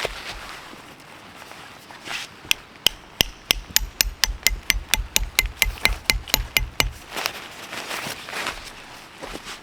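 Hammer striking metal in a quick, even run of about twenty blows over some four seconds, each with a short metallic ring; soft rustling before and after.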